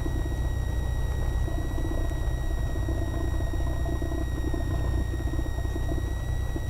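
Cessna 172R's four-cylinder Lycoming IO-360 engine running steadily at low power, a constant low rumble with a steady high-pitched whine over it.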